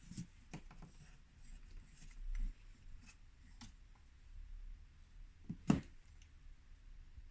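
Faint handling noise: a few scattered light clicks and taps, with one sharper knock about five and a half seconds in.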